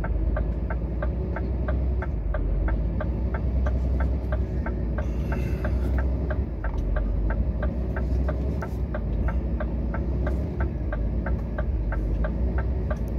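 Scania truck's diesel engine running with a steady deep drone while the truck struggles on an icy climb it cannot get up, with a light regular ticking about four times a second over it.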